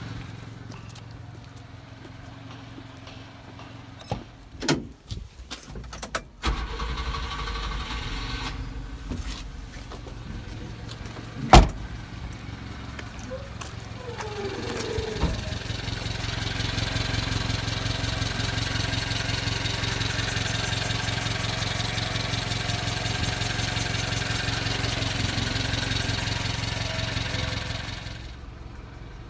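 Small four-cylinder engine of a 1991 Subaru Sambar kei truck running at a steady idle. There are a few clicks and knocks, and one sharp knock about a third of the way in. From about halfway the engine runs louder and steadier for some ten seconds, then drops back shortly before the end.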